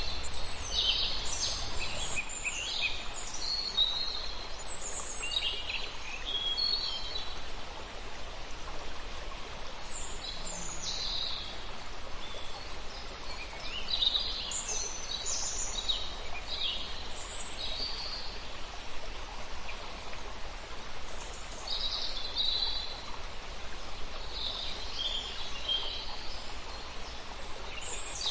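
Wild birds chirping and calling in short clusters, several calls overlapping, over a steady background hiss.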